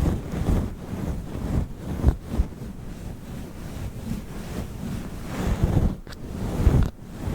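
Fluffy furry microphone windscreen being rubbed and brushed right on the microphone: a low, rumbling swish that comes in uneven strokes.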